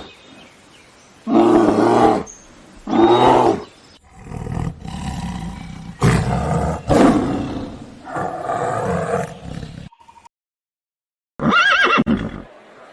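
Animal calls: two short loud calls, then a longer call that rises and falls, a brief break, and one more short call near the end.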